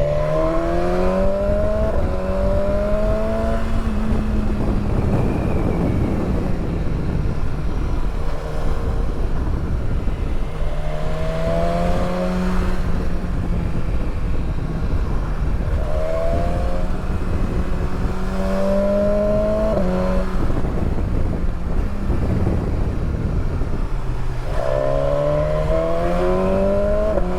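Motorcycle engine under way, its pitch rising as it accelerates and dropping back several times as the rider shifts and rolls off the throttle, over steady wind and road rush.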